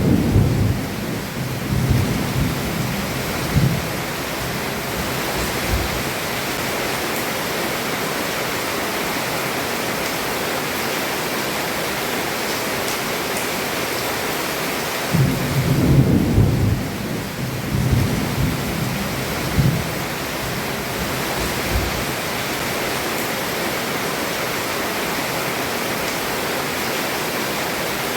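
Heavy rain falling on a roof, a steady hiss, with low rolls of thunder rumbling twice: once at the start and again about halfway through, each lasting a few seconds.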